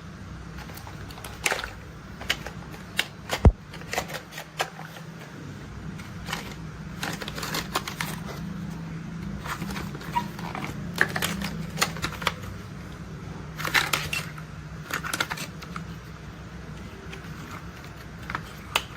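Plastic toy construction vehicles being handled and moved: scattered clicks and short rattles, with one sharp click about three and a half seconds in, over a steady low hum.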